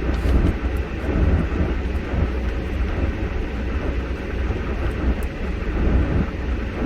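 Steady low rumble of a vehicle driving on snow-covered streets, heard from inside the cabin.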